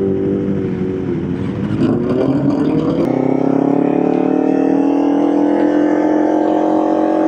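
Motorcycle engine pulling away: steady for a moment, a brief dip about a second and a half in as it shifts, then its pitch climbs slowly and steadily as it accelerates.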